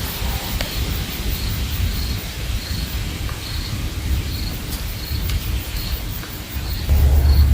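Short high chirps repeating evenly, about one every 0.7 seconds, over a low rumbling noise that grows louder near the end.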